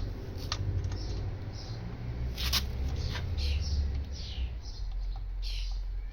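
Small birds chirping repeatedly in short falling notes, with a few sharp clicks and a steady low rumble underneath.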